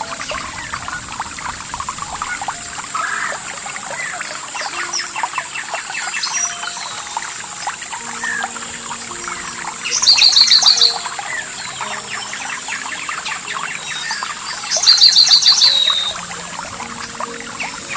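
Chorus of small songbirds chirping and calling over trickling water, with a steady high-pitched whine underneath. Twice, about ten and fifteen seconds in, a louder bird sings a fast trill of about a second.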